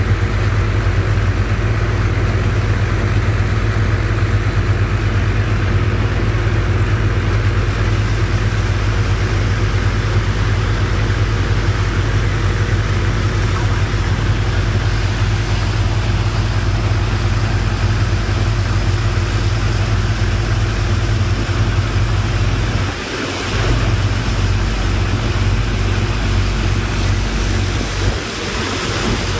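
Engine driving a sand boat's sand pump, running steadily with a strong low hum; the sound dips briefly twice near the end.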